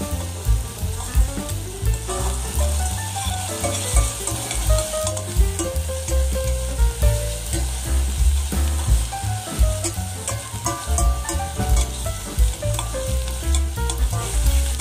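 Onions, garlic and a red spice paste sizzling as they fry in oil in a stainless steel pot, with a metal spoon stirring and scraping against the pot. Background music with short melodic notes and a low pulsing beat plays underneath.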